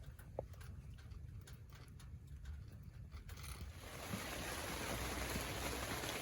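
A quiet low rumble with a few faint clicks, then about three and a half seconds in a steady hiss of heavy rain comes in.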